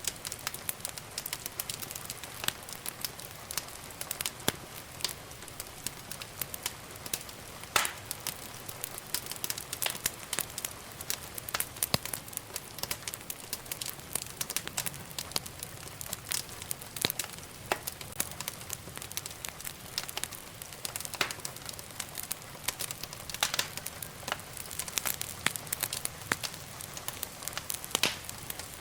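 Wood fire burning in a fireplace, crackling and popping irregularly over a soft steady hiss, with a few louder pops.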